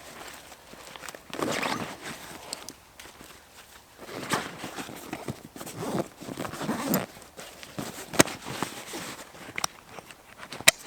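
Footsteps and handling of sticks in dry woodland leaf litter while gathering firewood: irregular crunching and rustling, with a couple of sharp cracks near the end.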